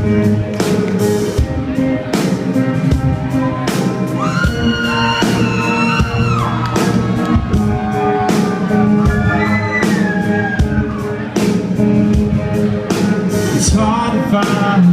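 Live country-rock band playing a song's instrumental intro, with guitars and a steady drum beat, and crowd whoops rising over it a few times.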